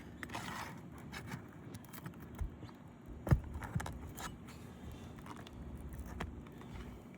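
Scraping and scattered knocks and clicks as a roofing tool works under a sealed 3-tab asphalt shingle to lift it, with one sharp knock about three seconds in the loudest.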